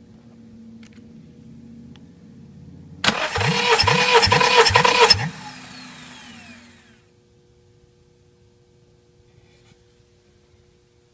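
Honda D17A 1.7-litre four-cylinder engine spun over on its starter motor for about two seconds for a compression test, with about five even compression pulses. The starter then cuts off and winds down with a falling whine.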